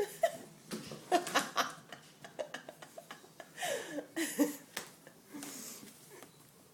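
A person laughing softly in short, breathy bursts, with a few light taps in between.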